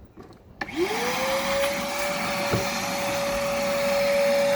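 Vacuum cleaner switched on about half a second in: its motor whine rises quickly in pitch as it spins up, then runs steadily over a loud rush of air.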